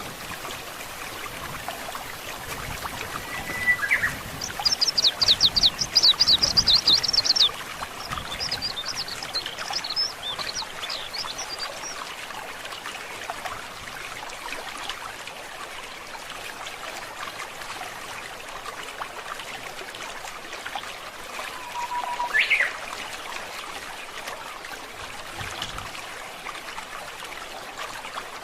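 A stream trickling steadily, with birds singing over it: a rapid series of high, sharp notes about five seconds in, the loudest part, then a fainter run of notes, and a single call that sweeps sharply upward a little past twenty seconds in.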